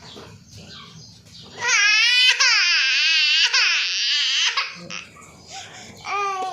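A young child lets out a loud, high-pitched squeal lasting about three seconds, its pitch wavering up and down. A shorter vocal sound follows near the end.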